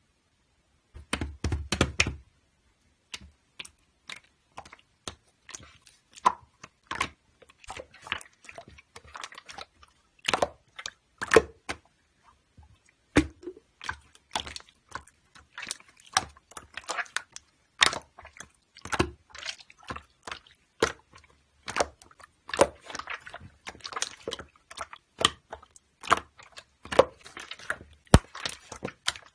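Slime being handled, squished and poked: a steady run of irregular wet clicks and pops from air pockets bursting in the slime.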